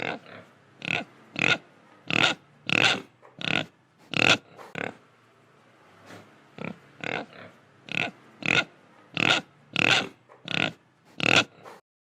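Pig grunting over and over, about two short grunts a second, with a brief pause midway. The grunts stop abruptly just before the end.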